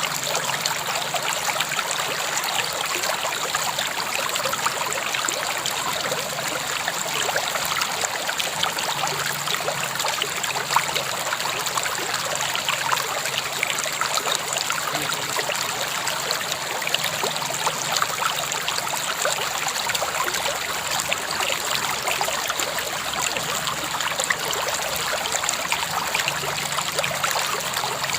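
River water flowing steadily over stones, an even rushing with fine splashing and trickling detail.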